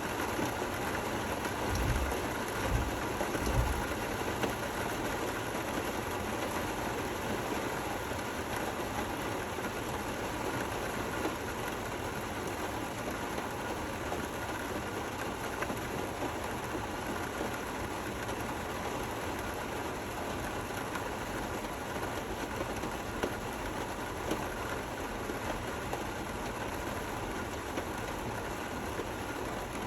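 Steady rain falling, an even hiss of drops without breaks. A few low thuds sound about two to four seconds in.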